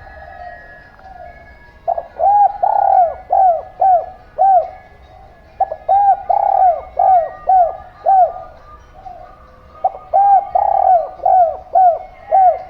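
Zebra dove (perkutut) cooing loudly: three runs of about six quick, arching coo notes, each run lasting about two and a half seconds, with a softer dove cooing faintly under them.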